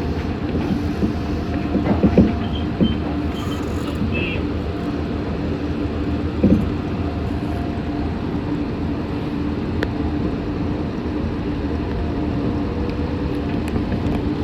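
Meitetsu 6500 series electric train running between stations, heard from inside the front car: a steady rumble of wheels on rail with a steady hum, and a few short thumps about two and six seconds in.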